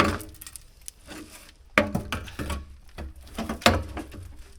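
Irregular clanks and knocks of metal parts being handled and set in place on a backhoe, some of them briefly ringing, with a cluster of knocks in the middle.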